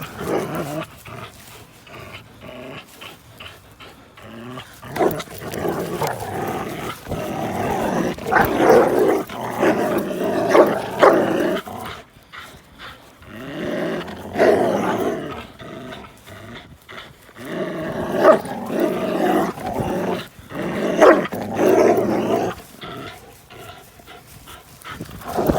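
Dogs growling in play during a tug-of-war, in rough bouts of a few seconds each with short pauses between.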